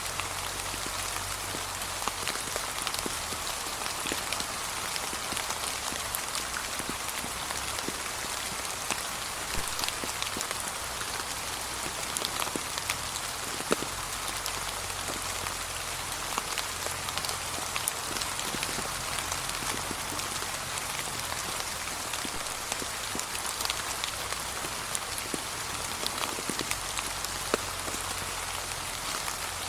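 Steady gentle rain falling, a constant hiss with many small drop ticks scattered through it.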